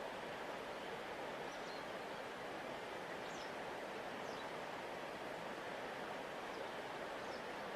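Steady rushing of a large river flowing past the bank, with a few faint high chirps of birds now and then.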